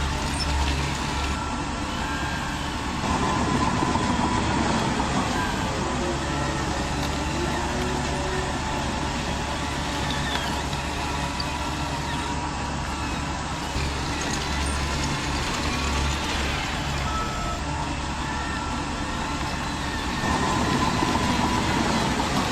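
Radio-controlled model construction machines (dozer and dump trucks) running. There is a steady low engine-like hum, and electric motor and gear whine rises and falls in pitch as they move, louder about three seconds in and again near the end.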